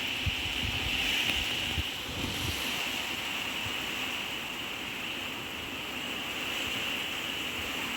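Strong typhoon wind blowing steadily, with gusts buffeting the microphone as low rumbles in the first couple of seconds.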